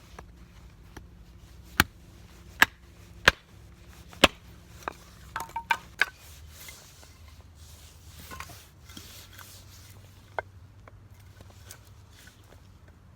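Chopping: a series of sharp knocks, four loud strokes roughly a second apart, then a quick cluster of lighter ones, then a few faint taps.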